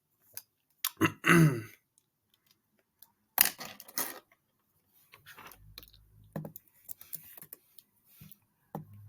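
Scattered small noises from a person in a quiet small room: a short murmur about a second in, a brief breathy burst around three and a half seconds, a low hum for about a second and a half in the middle, and a few faint clicks.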